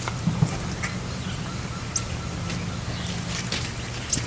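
Backyard chickens: a couple of brief high chirps and scattered small sounds over a steady low hum.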